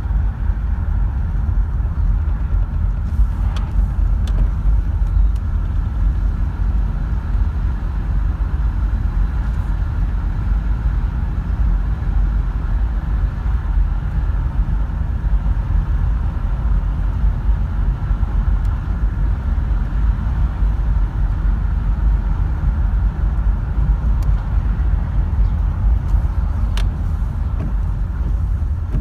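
Holden VZ Commodore Berlina engine idling steadily with a knocking sound at idle.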